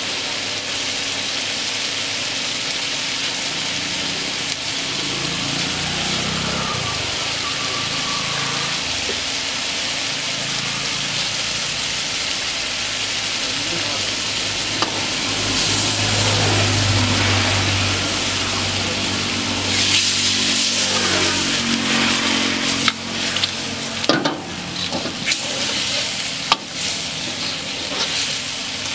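Chicken curry sizzling in a large wok while a long ladle stirs it. The sizzling gets louder about halfway through, and in the last third the ladle scrapes and clanks against the pan several times.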